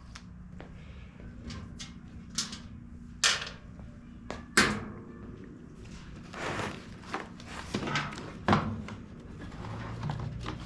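Repeated sharp knocks and clatters, with some short scraping, as blower parts and tools are handled and set down on a workbench during disassembly, over a steady low hum.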